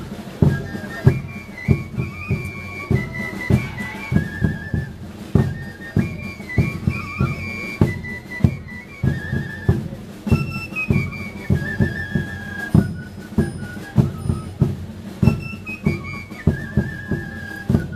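Religious dance-troupe music: drums beating a fast, steady rhythm under a high flute melody that steps between held notes in short repeated phrases.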